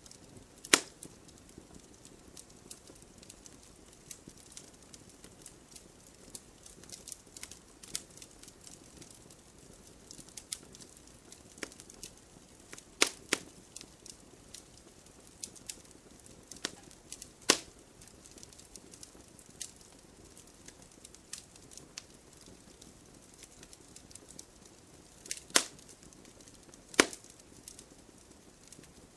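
Wood campfire crackling: a steady scatter of small clicks over a soft low hiss of flame, with a few sharp, loud pops from the burning wood.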